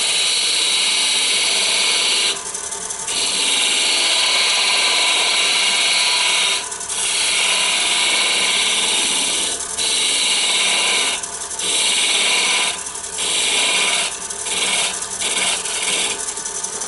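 Wood lathe spinning a small wooden blank while a narrow hand-held turning tool cuts it: a steady shaving hiss in long passes, broken by short pauses as the tool comes off the wood. The passes get shorter and quicker towards the end, over the lathe's steady hum.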